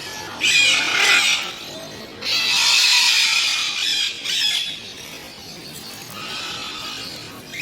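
Blue-and-yellow macaw squawking in harsh, raspy screeches: a loud one about half a second in, a longer one from about two to four seconds, a short one just after, and a fainter one near the end.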